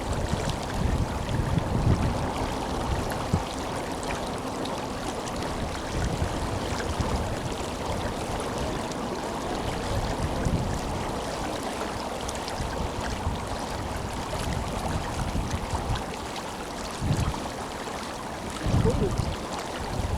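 A river's strong current running steadily, an even rushing of water. Wind buffets the microphone now and then with low rumbles, most clearly near the end.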